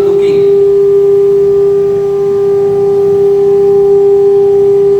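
Spindle of a 1325 CNC router running at a steady speed: a loud, unbroken whine on one pitch, with fainter overtones above it.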